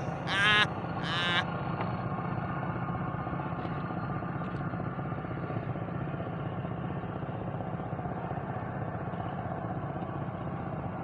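A steady low motor hum, with two short, loud, high-pitched calls that slide in pitch in the first second and a half.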